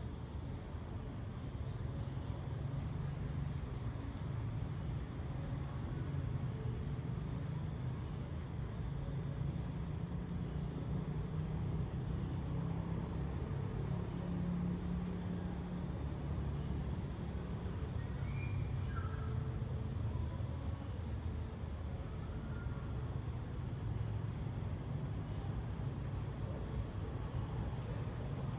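Crickets chirring in a steady, high, pulsing trill that stops briefly about halfway through, over a constant low rumble.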